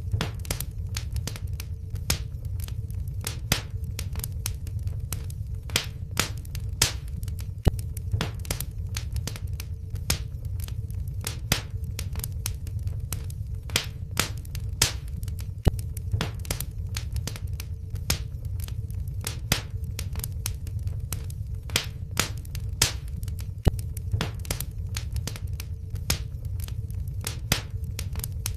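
Wood fire burning in a fireplace: sharp, irregular crackles and pops several times a second over a steady low rumble of the flames.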